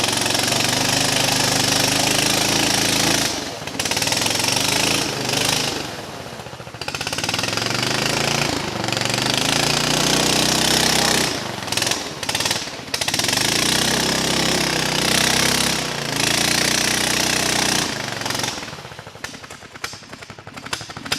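420cc single-cylinder four-stroke engine of a mini bike converted to a trike, running hard under throttle while being ridden. Its pitch rises and falls as the throttle is opened and eased off, and it drops away briefly several times, sinking low near the end.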